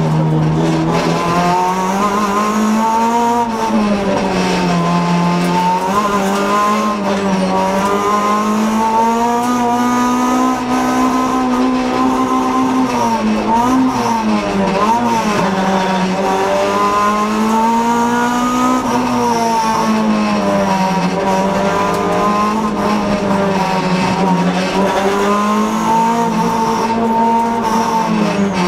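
Honda Civic rally car's four-cylinder engine heard from inside the cabin, running hard on a stage with the revs rising and falling again and again through the corners, and sharp dips as it shifts or lifts.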